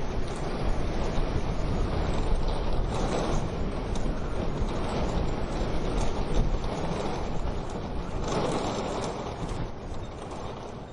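Wood-burning stove fire crackling under a dense rushing noise that swells twice, about three seconds in and again around eight seconds, then eases off near the end.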